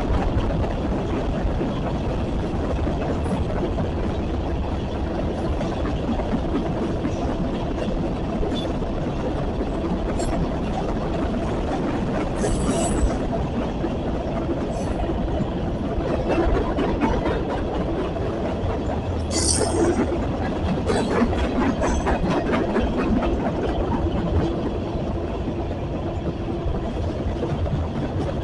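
Freight cars of a long train rolling past: a steady rumble and clatter of steel wheels on the rails, with brief high-pitched wheel squeals about twelve and nineteen seconds in.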